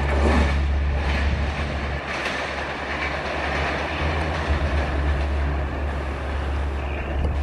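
Indian Railways passenger express train running past at speed: a steady low rumble of coaches with wheels running over the track.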